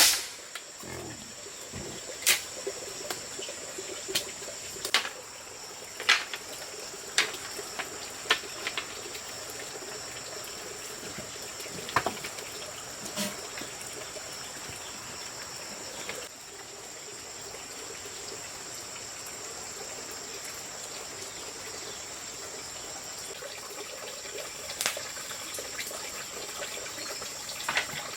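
Steady high-pitched insect chirring, with sharp clicks or knocks at irregular intervals, several in the first half and a couple near the end.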